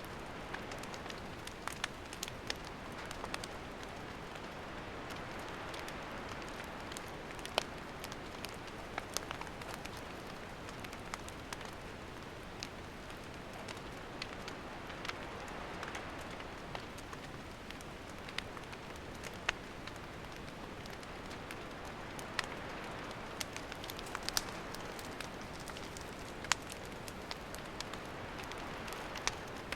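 Wood campfire burning: a steady hiss with frequent sharp crackles and pops scattered throughout.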